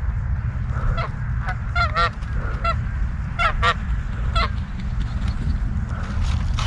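Geese honking: a string of short calls between about one and four and a half seconds in, over a steady low rumble.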